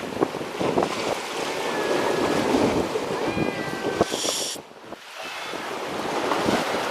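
Sea waves washing against the shore with strong wind buffeting the microphone, and a brief high hiss about four seconds in.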